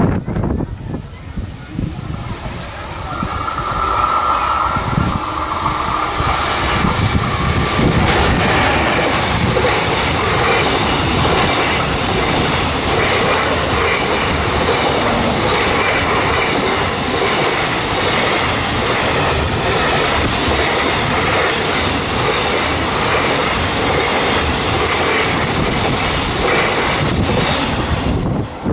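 Freight train hauled by a JR Freight EF210 electric locomotive passing at speed, the wagons' wheels clattering in a steady run of clicks over the rails. The sound builds over the first few seconds, then holds loud.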